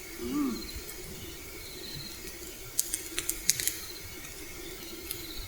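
A brief murmur of a voice near the start, then a quick run of light, sharp clicks and taps a bit under three seconds in, over a faint steady hum.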